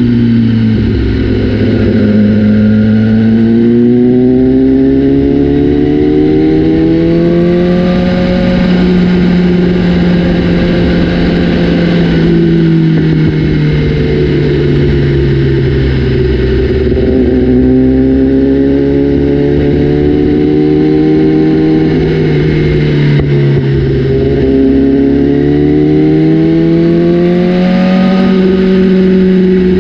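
BMW S1000RR inline-four engine through an Austin Racing exhaust, its pitch climbing steadily over several seconds and then falling back, three times over.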